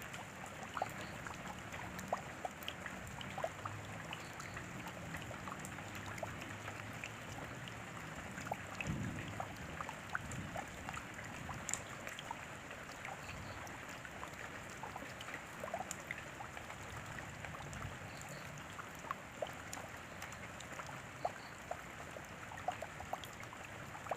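Steady rain, a continuous hiss with many separate drops ticking sharply on a hard surface. A brief low rumble comes about nine seconds in.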